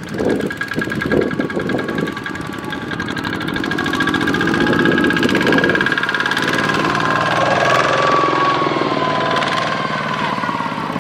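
Single-cylinder diesel engines of Kubota two-wheel walking tractors running with a fast, even firing beat, getting louder about four seconds in.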